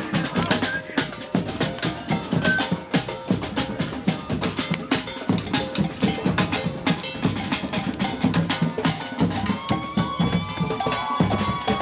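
Drum-led music with dense, rapid drum hits, and a held high pitched tone joining in near the end.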